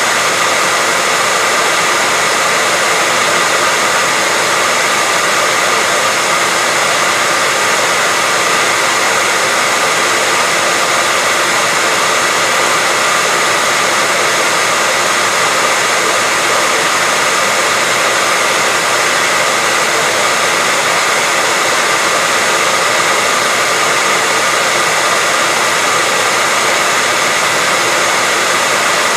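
Hair dryer running steadily: an even, unchanging whoosh of blown air, with a faint motor whine.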